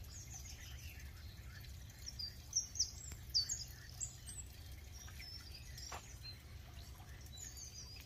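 Small birds chirping and whistling faintly, with a flurry of short, quick calls about two to four seconds in, over a low steady rumble.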